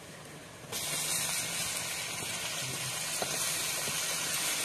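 Chopped tomatoes sizzling in hot oil with fried onions and green chillies in a large kadai as they are stirred with a slotted ladle. The sizzle starts suddenly under a second in and then holds steady, with a few faint ticks of the ladle.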